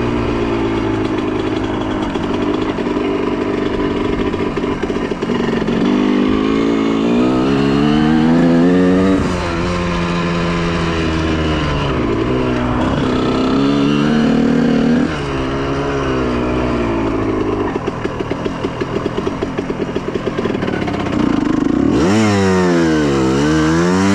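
Honda CR125R two-stroke single-cylinder engine being ridden, its pitch climbing and dropping again and again through the gears. For a few seconds later on it runs low and uneven, then near the end it is revved up and down in quick blips.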